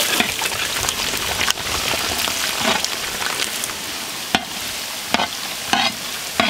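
Garlic cloves frying in hot oil in a large metal uruli, a steady sizzle, with a metal spatula scraping and knocking against the pan several times as they are stirred.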